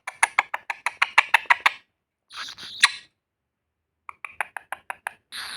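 Baby green parrot squeaking in two quick runs of short, sharp chirps, about eight a second, with a short raspy sound between them and another near the end.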